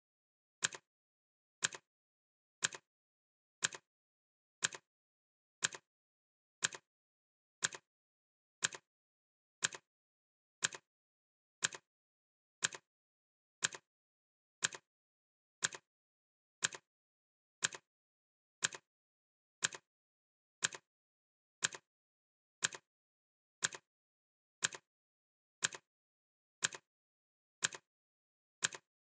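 Clock ticking sound effect: a sharp, dry tick about once a second, perfectly steady.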